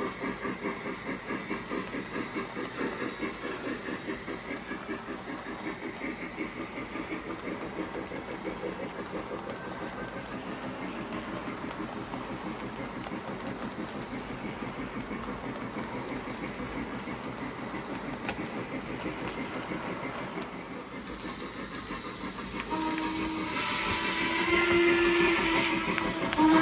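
O scale model steam locomotive running on the layout, its sound system giving a steady rhythmic chuff with wheels clicking over the track. A multi-tone steam whistle blows from about three-quarters of the way in, growing louder toward the end.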